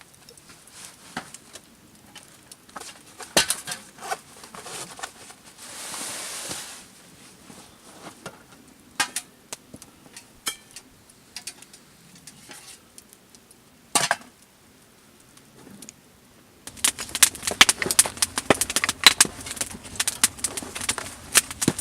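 Camp gear being handled, with scattered clinks and knocks like pots and utensils. A short rustle comes about 6 seconds in, and a dense spell of crackling and crunching starts about three-quarters of the way through.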